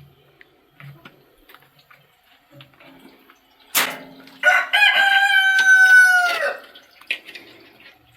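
Rooster crowing once, about four seconds in: a short opening note, then a long held call that falls away at the end.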